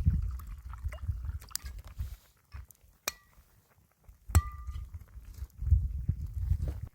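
Two sharp clinks of a hard object, each ringing briefly, about three and four and a half seconds in, over intermittent low rumbling.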